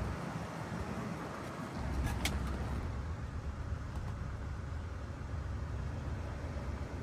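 1977 Cadillac Eldorado Biarritz's 425 V8 running, a steady low rumble with road and engine noise, and one brief sharp high tick about two seconds in.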